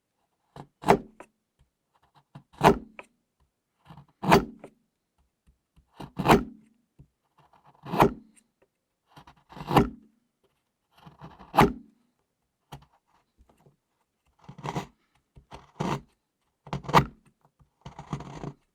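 Blade strokes cutting into a thick bar of chocolate, each a short crunch and scrape, about ten strokes spaced a second and a half to two seconds apart, coming a little quicker near the end.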